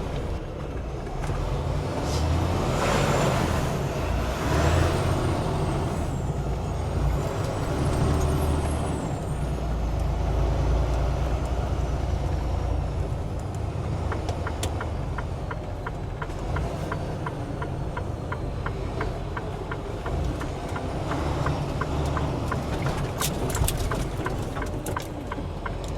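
Semi truck's diesel engine running with a steady low rumble. A few seconds in there is a burst of air hiss, as from the air brakes. Through the second half comes a run of evenly spaced clicks.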